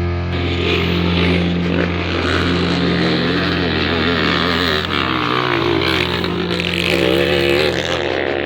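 Motocross dirt bike engines revving, their pitch repeatedly rising and falling as the riders work the throttle.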